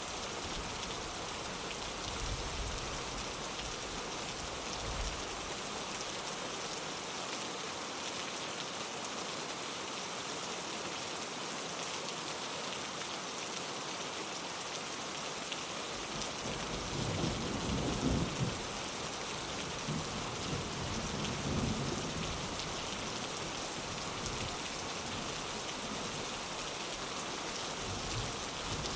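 Steady rain pattering on a window, with a rumble of thunder rising about halfway through, loudest twice, then fading back into the rain.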